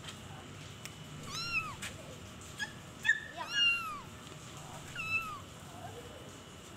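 Domestic cat meowing: three high, rising-then-falling meows about two seconds apart, with a brief sharp chirp just before the second one.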